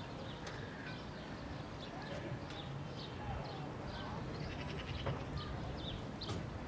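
Many small birds chirping, short high notes several times a second, with a brief rattle a little past the middle, over a steady low rumble of open-air background.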